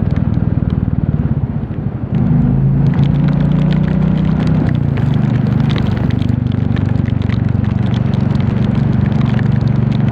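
Royal Enfield Classic 350 single-cylinder engine running under way, its note picking up and steadying about two seconds in. From about three seconds in it is joined by scattered ticking of rain.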